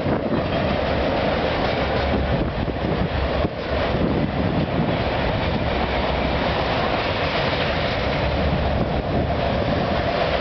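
CN freight train of autorack cars rolling past, a steady, unbroken noise of steel wheels running on the rails.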